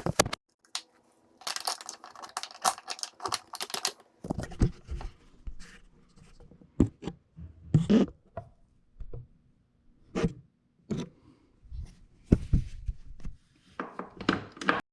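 Hand tools working on a jet ski's engine bay: a couple of seconds of rapid clicking, then scattered knocks and clunks of tools against metal and plastic parts.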